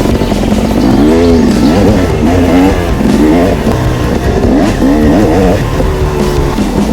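Dirt bike engine sound, revving up and down over and over, its pitch rising and falling about every second.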